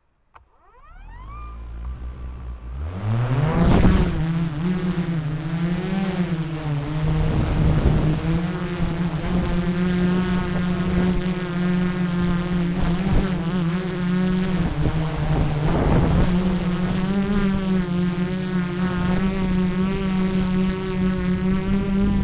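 DJI Mavic 3 Pro quadcopter's motors and propellers spinning up with a rising whine over the first three seconds, then a steady buzzing hover whose pitch wavers slightly, with a few brief surges of rushing air.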